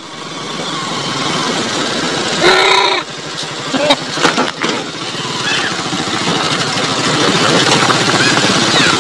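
Small motorcycle-type engine running steadily while riding along a rough dirt road. A short pitched call comes about two and a half seconds in, and there are a few sharp knocks or rattles about four seconds in.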